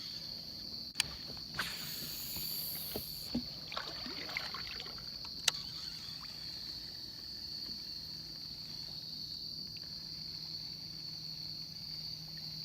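Steady high-pitched insect chorus, with a few sharp knocks and a brief rustle in the first six seconds.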